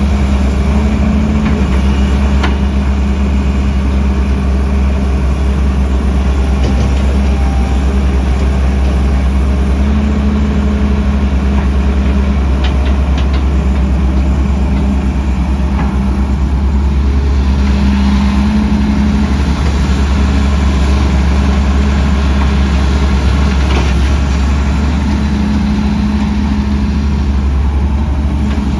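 Heavy diesel construction machinery running steadily: a deep engine rumble whose pitch rises and falls slightly every few seconds as the engines are throttled, with a few light clanks.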